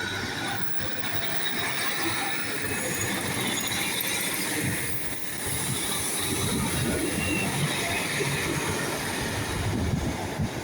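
Two coupled Class 150 Sprinter diesel multiple units running past, a steady rumble of wheels on the rails with a faint high wheel squeal at times.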